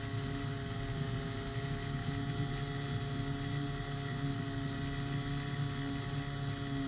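Small engine and propeller of a powered hang glider running at a steady speed in flight, a continuous even drone with no change in pitch.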